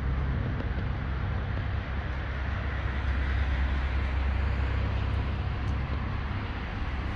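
Porsche 718 Cayman GTS engine idling steadily, a low, even exhaust rumble with no revving.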